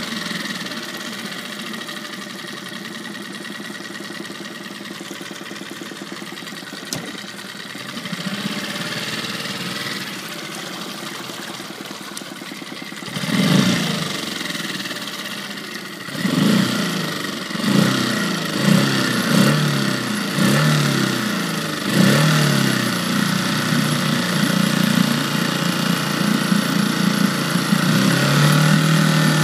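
Tohatsu/Nissan outboard motor idling steadily, then revved in a series of quick throttle blips from about halfway through, settling into a faster run near the end. The owner believes the engine is making an abnormal noise but does not know its cause.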